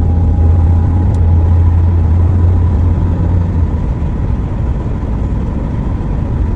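Steady low rumble of a moving vehicle heard from inside, with a constant hiss of travel noise and a faint steady whine over it.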